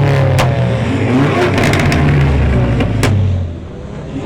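Car engine revving hard, its pitch sliding up and down, with two sharp cracks, one near the start and one about three seconds in. The engine note drops away near the end.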